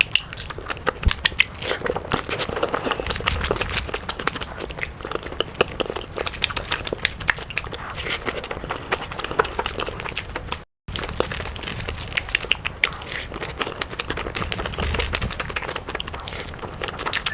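Close-up eating sounds: chewing and crunching food with many quick wet clicks and smacks. The sound drops out completely for a split second about ten and a half seconds in.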